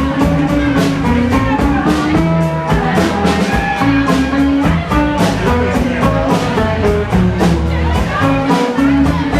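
Live rock band playing an instrumental stretch of a song, with sustained string notes over a steady drum beat.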